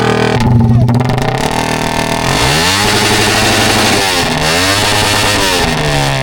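Motorcycle engines revving hard, their pitch climbing and dropping several times, with two revving over each other at once.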